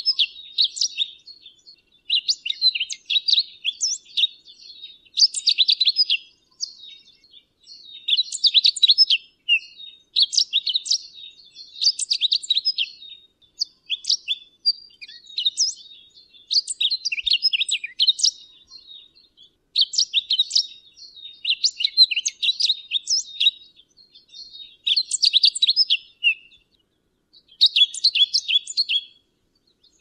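Pine grosbeak singing: a dozen or so quick warbling phrases, each a second or two long, separated by short pauses.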